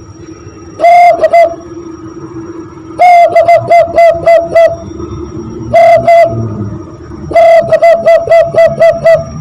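Hand-blown imitation of a zebra dove (perkutut) call, made by blowing into cupped hands. Four cooing phrases, each a longer opening note followed by a quick run of short pulses. The short and long phrases alternate, and the long ones run to about eight pulses.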